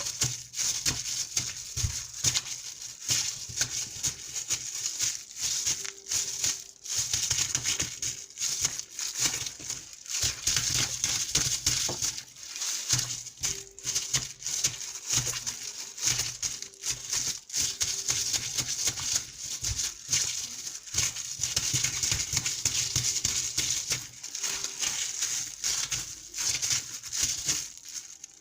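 Water splashing and dripping close to the microphone: a dense, irregular crackle of small splashes that goes on without a break.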